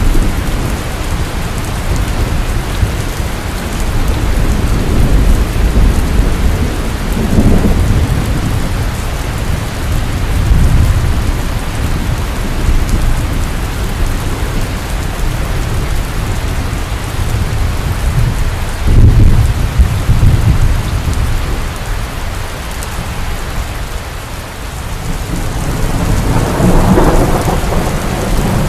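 Heavy rain falling steadily with thunder rumbling low and deep, swelling and fading several times; the loudest rolls come about two-thirds of the way in and again near the end.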